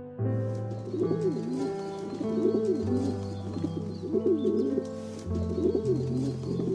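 Pigeon cooing: a run of repeated rising-and-falling coos, over background music with held notes and a slowly changing bass.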